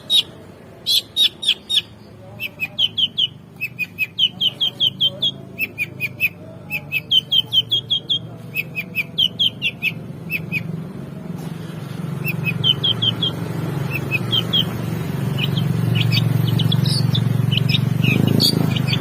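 Long-tailed shrike (cendet) singing in rapid bursts of four to six sharp, high chirps, the bursts thinning to scattered notes about halfway through. A low steady rumble rises underneath in the second half and is loudest near the end.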